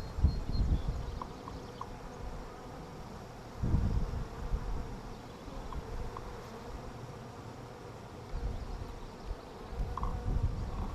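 Honey bees buzzing steadily around an open hive as its frames are inspected. Bursts of low rumble come near the start, about four seconds in, and again near the end.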